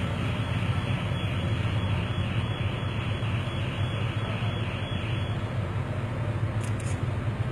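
Boat engine running steadily, a constant low hum under a rushing noise.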